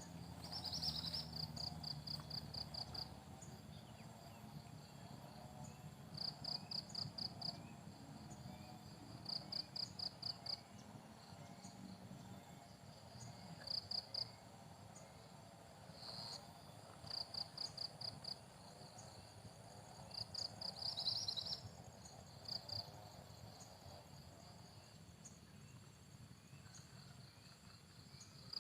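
A cricket chirping in bursts of six to eight quick, high pulses, each burst about a second long and repeating every few seconds, over a faint background of insects.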